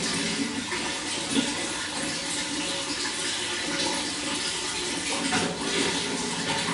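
Running water flowing steadily, a continuous wash with small flickering splashes and no pause.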